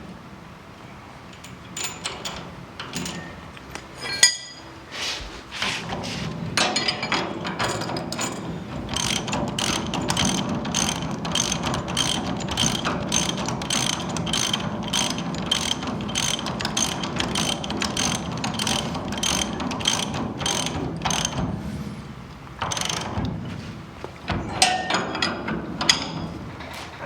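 Hand ratchet wrench clicking in quick, even strokes as it tightens a hex nut on the bump-steer bolt through the steering rod end. A few scattered clicks come first, then a steady run of clicking for most of the stretch, easing off near the end.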